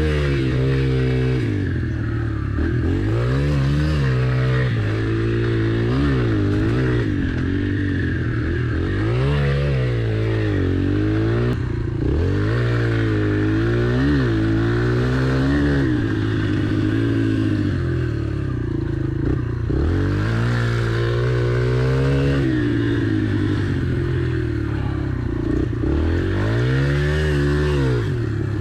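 Yamaha TT-R pit bike's four-stroke single-cylinder engine revving up and falling back again and again, about every two seconds, as it is ridden around tight turns. Light clatter from the bike is heard along with the engine.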